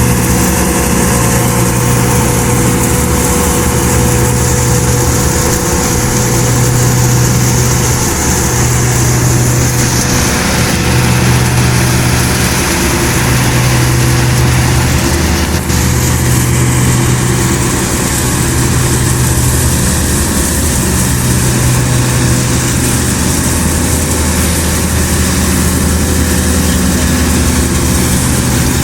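Farm tractor's diesel engine running steadily, with a low hum that swells and fades about every one and a half seconds.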